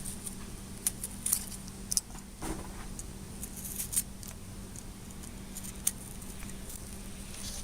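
Masking tape being handled, pulled and pressed onto metal vise parts: scattered light crackles and clicks, a few sharper ones, over a steady low hum.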